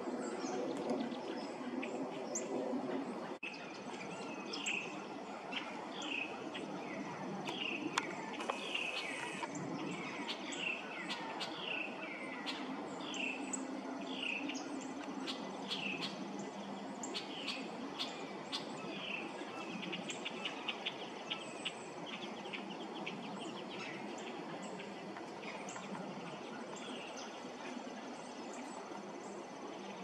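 A bird calling a long series of short, clear notes, each a little over half a second apart and spacing out toward the end. A quick run of faint ticks follows about twenty seconds in, over steady low background noise in the woods.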